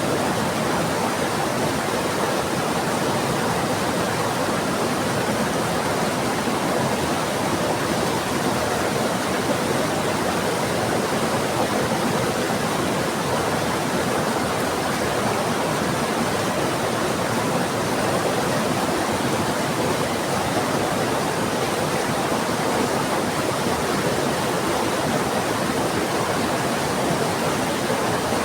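Heavy rain falling together with a fast-flowing river, a steady, even rush of water with no thunder.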